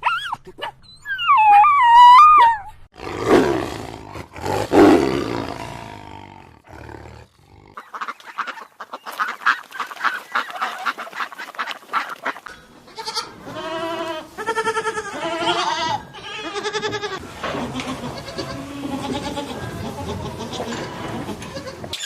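Farm animals calling in a run of short separate sounds, with goats bleating among them: repeated wavering pitched bleats come near the middle.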